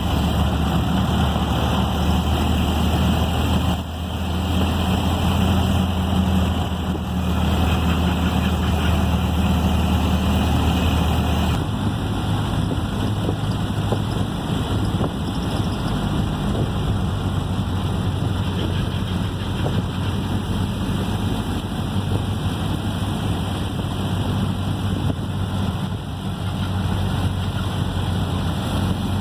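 A Ford Model A's four-cylinder engine and drivetrain running as the car is driven, a steady drone heard from inside the car. The low drone changes about twelve seconds in.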